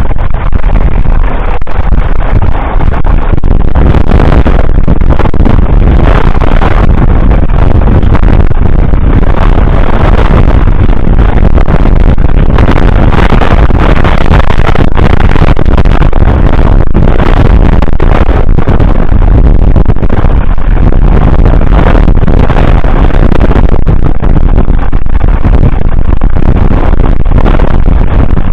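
1947 Fordson Model N tractor's 4.4-litre four-cylinder petrol/TVO engine running steadily and loud, pulling a two-furrow plough.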